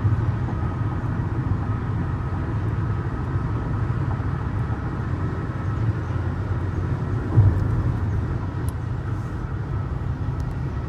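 Steady low rumble of road and engine noise from a car driving on a highway, with one louder thump about seven seconds in.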